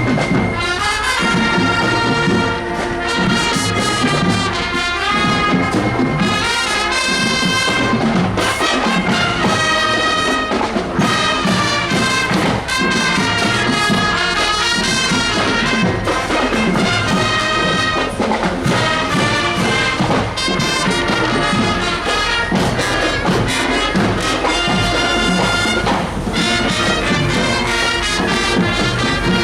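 Marching show band playing a tune, with trumpets and trombones carrying the melody in sustained, changing notes.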